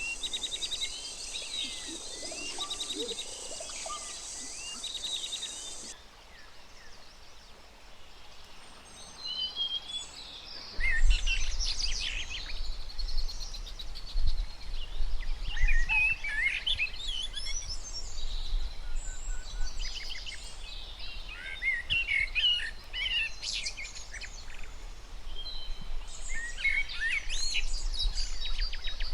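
Birds chirping in clusters of quick, high calls. A steady high hiss runs under them for the first few seconds, and from about eleven seconds in a low rumble sits beneath the calls.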